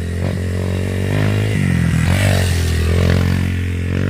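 Dirt bike engine running steadily on the trail, with a low, even drone that shifts slightly in pitch about halfway through as the throttle changes.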